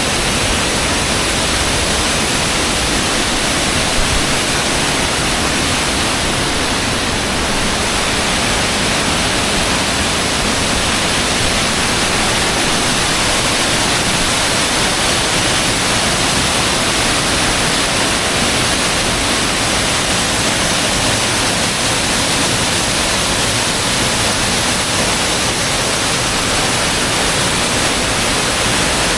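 Banyumala Waterfall's many streams of water pouring down the cliff into the pool: a loud, steady rushing with no break.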